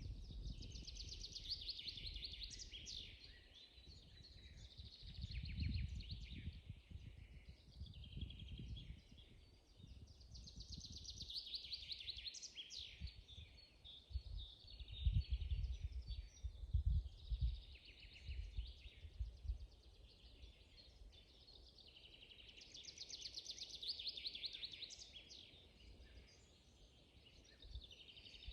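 Songbirds singing: one bird repeats a quick trilled phrase about every ten seconds, with other bird calls in between. Under them is a low, gusting rumble of wind on the microphone, loudest about halfway through.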